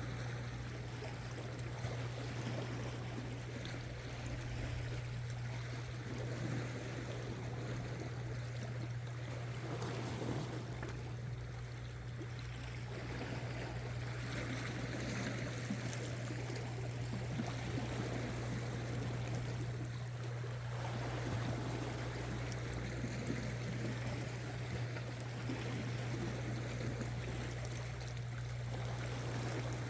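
Seawater washing and trickling against shore rocks, over a steady low hum.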